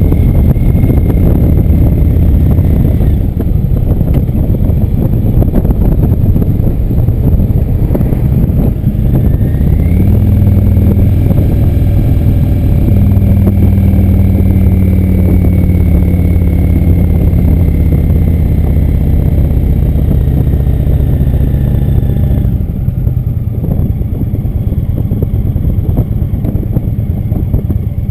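Indian motorcycle engine running at road speed. About ten seconds in its pitch rises as it accelerates, it holds steady, and a little after twenty seconds it drops off as the throttle eases.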